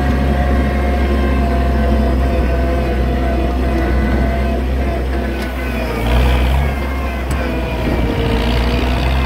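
Oliver 770 tractor's six-cylinder engine running steadily, with a brief surge about six seconds in.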